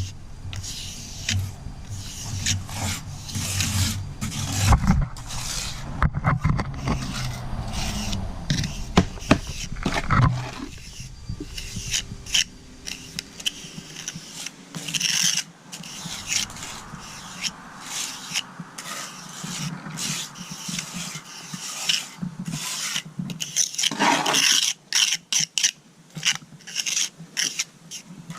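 Hand trowel scraping and rubbing over wet concrete mortar in many short, irregular strokes, as a concrete patch is worked. A low rumble runs underneath for roughly the first ten seconds.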